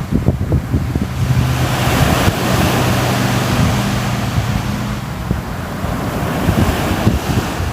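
Sea waves washing in and breaking, a steady rushing surf, with wind buffeting the microphone in low rumbling gusts. A faint low steady hum sits under it from about one second in until about five seconds in.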